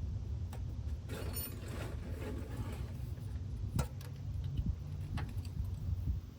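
Metal hand tools scraping and clinking against a truck's brake line fitting, with a few sharp clicks about four and five seconds in, over a steady low rumble.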